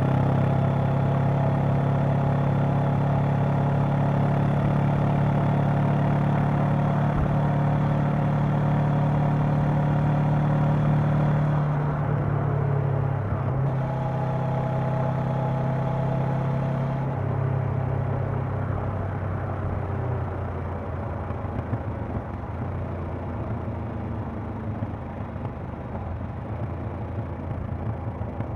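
Honda CB500X parallel-twin engine and exhaust running under way. It holds a steady note for about the first twelve seconds, then steps down in pitch twice and grows quieter over the last ten seconds.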